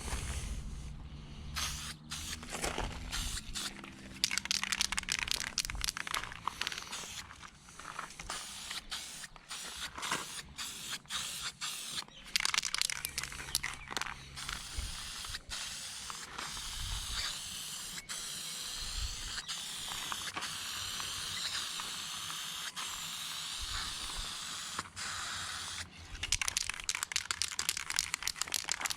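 Aerosol spray can of satin black epoxy enamel paint: a run of rapid clicks and rattles, then a long steady spraying hiss through the middle, then more rattling clicks near the end.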